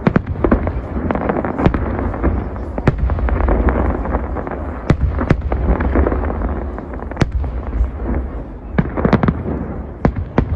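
Large fireworks display: a continuous rumble of shell bursts overlaid with many sharp cracks and bangs, with a quick cluster of cracks about nine seconds in.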